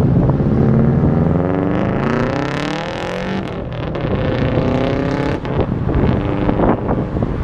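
Car engine and exhaust accelerating hard, the pitch rising for about three seconds, then a gear change and a second, shorter rise, with a few sharp cracks near the end.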